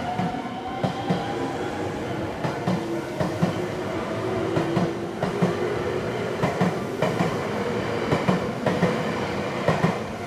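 Electric commuter train running past the level crossing, its wheels clacking over the rail joints in a quick, steady rhythm of paired knocks, with a motor tone that slides in pitch.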